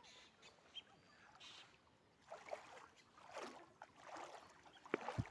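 Faint, irregular water swishes from a small boat being paddled or poled through floodwater, with one sharp knock a little before the end.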